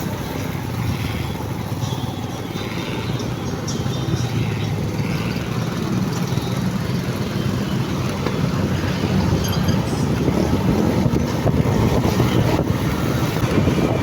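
Motorcycle engine running while riding, with wind buffeting the microphone; the noise grows gradually louder.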